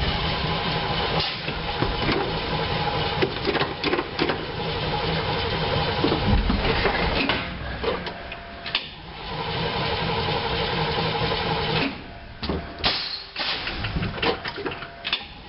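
GMC 366 gasoline V8 of a 1986 Blue Bird school bus being cranked on the starter in several tries, with short breaks between them, to restart it after a stall. With its rebuilt carburettor it will only start and keep running with the choke pulled out.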